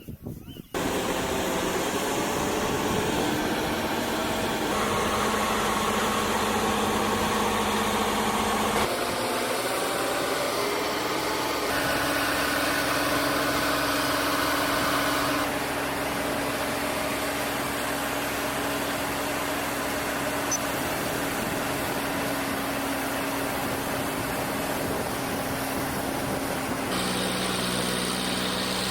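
Engine of a paddy harvesting machine running steadily under load, a continuous drone whose pitch and tone change abruptly several times.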